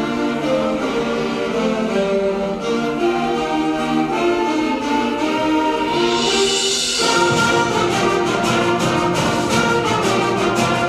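Student instrumental ensemble, with brass and strings, playing holiday music. About seven seconds in the music changes abruptly to a more rhythmic passage, just after a splash of high hiss.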